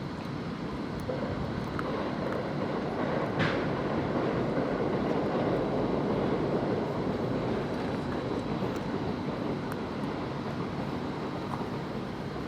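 A passing vehicle, heard as a broad rumble that builds over the first few seconds, is loudest in the middle and then slowly fades, with one short sharp click about three and a half seconds in.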